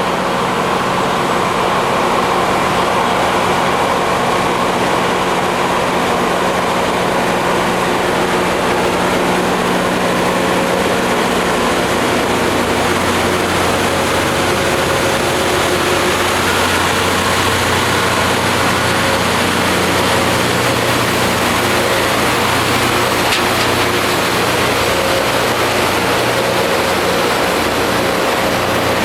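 Rail grinding train at work: loud, steady grinding noise from its grinding wheels on the railhead over the hum of its diesel engines, whose low note shifts about halfway through.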